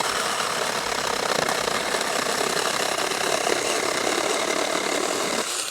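Saker Mini 4-inch battery-powered electric chainsaw running steadily as it cuts through a red pine knot, then stopping near the end.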